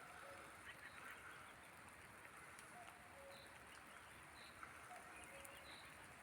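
Near silence of evening air, with faint short bird calls every second or so.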